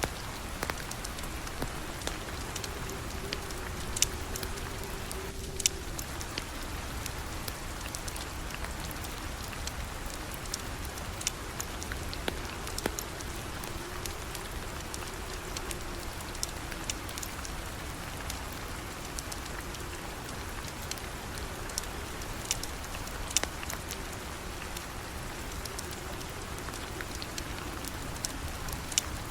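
Steady rain falling, with scattered sharp clicks throughout and a faint wavering hum underneath.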